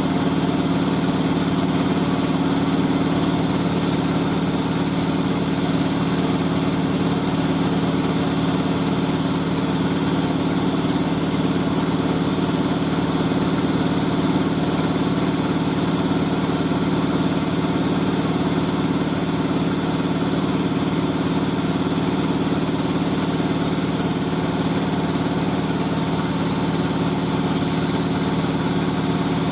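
Hoover A3060 Electronic 1100 washing machine spinning at its full 1100 rpm: a steady, even drum-and-motor hum with a thin constant high whine above it.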